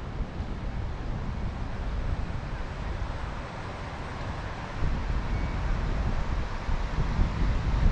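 Wind buffeting the microphone of a camera on a moving bicycle, over a steady rush of street traffic. The wind rumble gusts harder about five seconds in.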